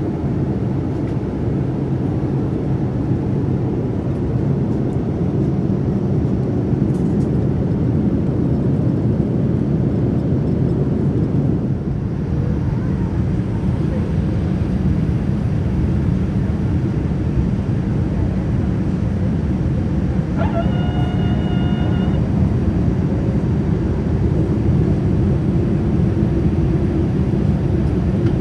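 Steady low rumble of a jet airliner cabin: engine and airflow noise. About two-thirds of the way through, a single cabin chime tone sounds for about a second and a half.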